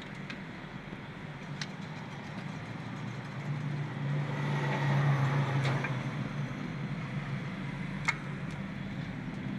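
Honda City engine running steadily after a rebuild for a misfire, growing louder for a couple of seconds midway as if lightly revved. A few light clicks sound over it.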